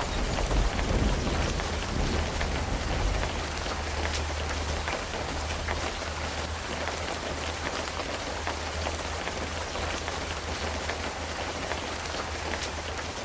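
Steady rain falling, with many small drop clicks and a low thunder rumble dying away over the first few seconds; the rain slowly fades.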